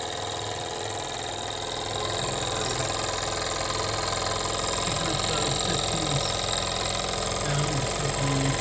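Jensen 75 toy live steam engine running under steam, with steady mechanical clatter and steam hiss that grows a little louder about two seconds in.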